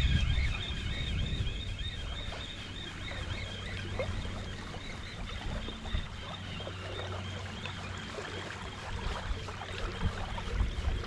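Wind buffeting the microphone outdoors, a steady low rumble with a few small clicks.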